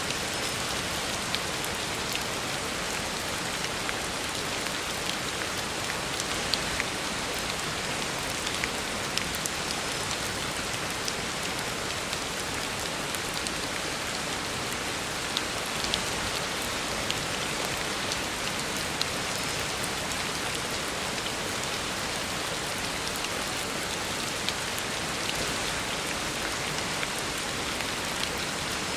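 Heavy rain falling on a road surface: a steady, dense hiss with frequent single drops ticking sharply through it.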